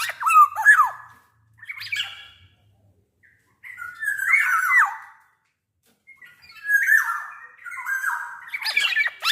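Black-naped oriole singing: loud, fluty gliding whistles mixed with harsh, scratchy notes, in four short phrases with brief pauses between them.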